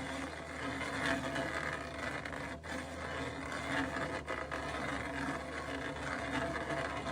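Heavy machine with a root-twisting attachment running steadily while it twists a stump out of the ground: a low engine drone under a rough, uneven grinding and rustling noise.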